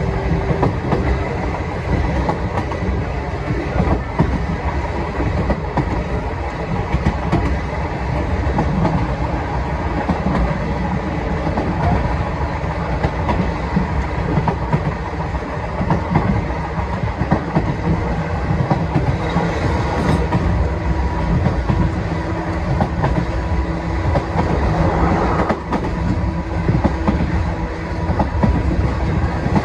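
Sangi Railway Sangi Line electric train running at speed, heard from inside the car: a steady rumble of the wheels on the track with a clickety-clack over the rail joints.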